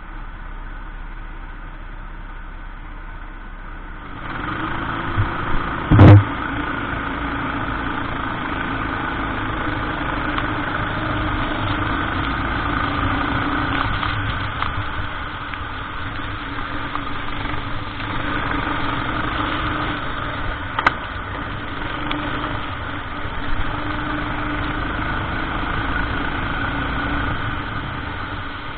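Racing kart engine running under load, its pitch wavering a little as speed changes. It gets louder about four seconds in. About six seconds in there is one very loud knock, and near the middle a shorter sharp click.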